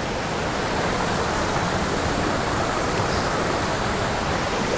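Steady rush of falling and flowing water from a small mountain stream and its waterfall.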